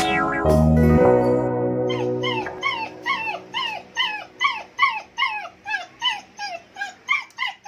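Newborn German Shepherd puppies crying: a quick run of short, high cries, about two or three a second, each falling in pitch. Background music fades out in the first two seconds.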